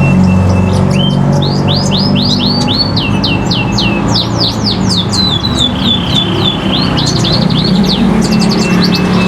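Long-tailed shrike (pentet) singing rapid runs of sharp, downward-sweeping whistled notes, with one held whistle about two-thirds through, over a steady low hum.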